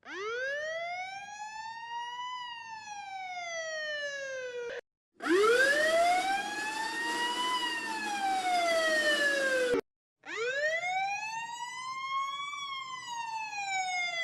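Three police siren wails in a row, each a single slow rise and fall in pitch lasting about five seconds, cut apart by short silences. The second has a hiss of background noise under it.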